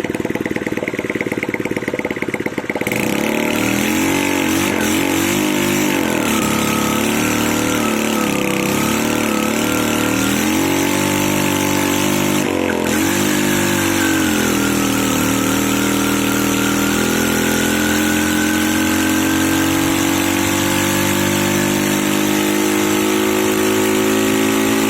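Motorcycle engine being used to start a diesel engine: engines running throughout, the sound growing fuller about three seconds in, then wavering up and down in pitch for about ten seconds before settling into a steadier run with slowly rising pitch.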